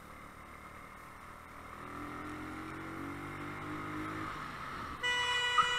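Riding sounds of a motorcycle: steady wind and road noise with a faint engine note rising a little. About five seconds in, a vehicle horn sounds and is held steadily, warning of a close call.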